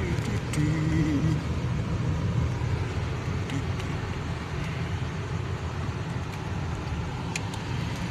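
Car road noise heard from inside the cabin while driving: a steady low rumble of engine and tyres, with a few light clicks.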